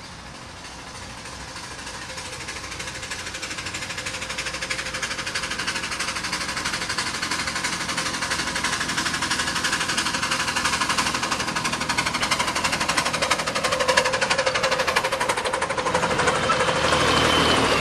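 Miniature railway train approaching and growing steadily louder, with a fast rattling clatter and a faint whine that strengthens near the end.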